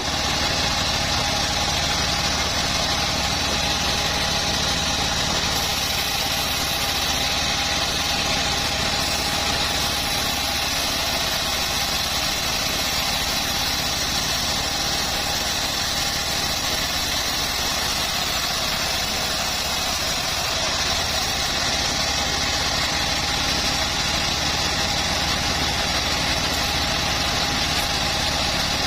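Homemade bandsaw mill running steadily, its drive engine giving an even drone with a steady high whine over it.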